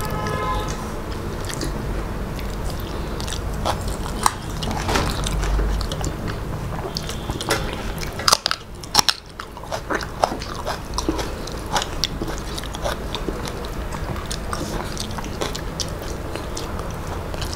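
Close-up eating sounds of rice and curry eaten by hand: wet chewing and lip smacking, with the squish of fingers mixing rice. A few sharper, louder smacks come about eight to nine seconds in.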